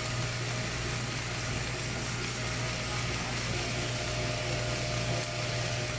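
CNC router running steadily: an even machine hum with a faint steady whine over it.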